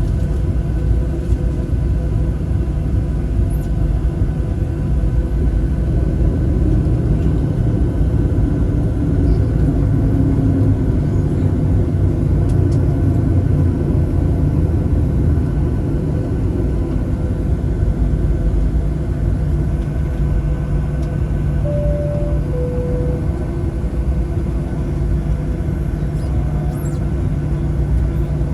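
Cabin noise of a Boeing 737-700 with its engines running on the ground: a steady low rumble with a faint engine hum. About three-quarters of the way through comes a short two-note falling tone, like a cabin chime.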